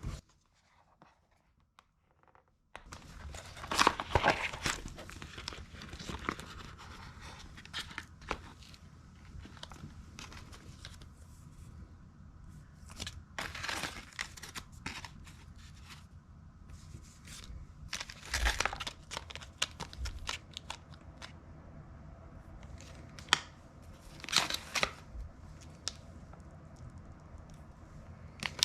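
Near silence for about three seconds, then irregular crinkling, rustling and tearing of packaging being handled, in short bursts.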